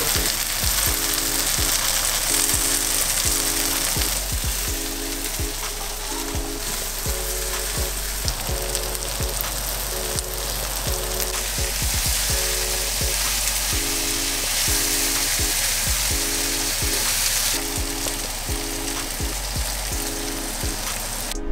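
Marinated soy curls sizzling steadily in a hot frying pan as they are turned with metal tongs. Background music with a steady, repeating beat plays underneath.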